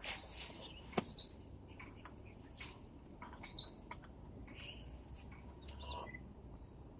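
A bird giving a short high chirp twice, about a second in and again midway through, among scattered small clicks and rustles, one sharp click just before the first chirp.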